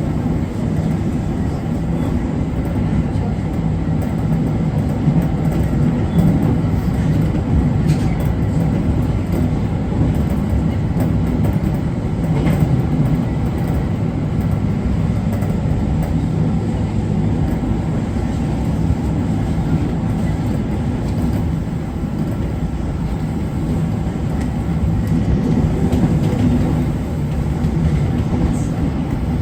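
JR Kyushu 811 series electric train running at speed, heard from inside the front car: a steady low rumble of wheels on rail, with faint steady motor and inverter tones and a few short clicks.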